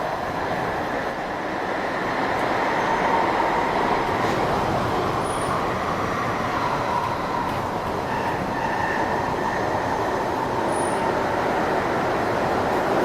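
A London Underground 1996 Stock train running, heard from inside the carriage: a steady rumble of wheels on rail with a high whine held above it.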